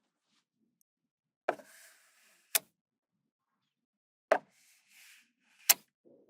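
Small magnetic balls snapping together with four sharp clicks, each followed by a brief soft rustle as the balls are placed into the build.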